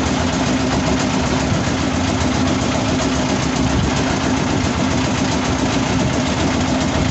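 Fishing boat's engine running steadily under way, with a constant hum and a dense wash of wind and water noise over it.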